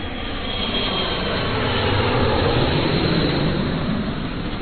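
A loud, steady rushing noise of the jet-engine kind, swelling a little toward the middle, with a faint high whistle in the first second or so.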